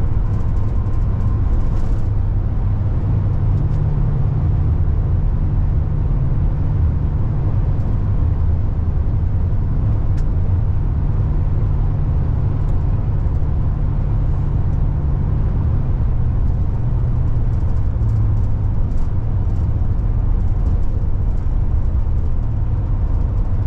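Steady road and engine noise from inside a moving car at highway speed, with a low drone.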